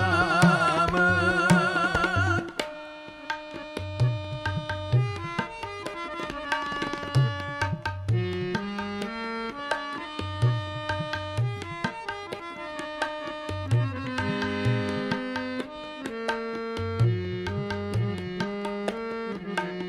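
Sikh kirtan. The singer's last held, wavering note ends about two seconds in, followed by an instrumental interlude: a melody of held notes, typically played on harmonium, over a steady tabla rhythm.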